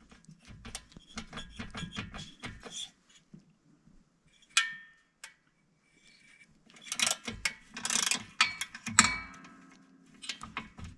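Ratchet wrench clicking in quick runs as the cylinder head bolts of a 277cc engine are loosened, with a sharp metal clank about four and a half seconds in and louder clattering of tools and parts a few seconds later.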